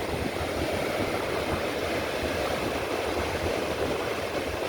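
Steady rush of wind buffeting the microphone over the wash of ocean surf, with no distinct events.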